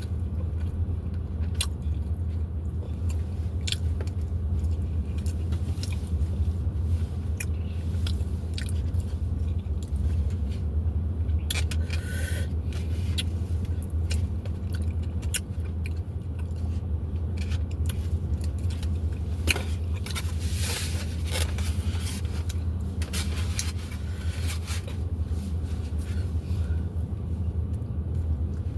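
Close-up chewing and biting of a taco, with scattered crunches and mouth clicks, denser about two-thirds of the way through, over a steady low hum.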